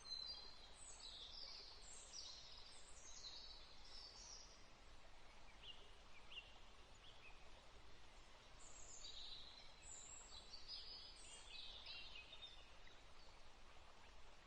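Faint birdsong: quick high chirps and twitters over a soft background hiss, in a cluster during the first few seconds and again from about nine to twelve seconds in.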